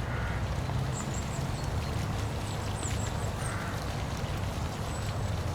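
Steady rushing of a waterfall with a deep low rumble. Birds call over it: a few short high chirps and a couple of brief lower calls.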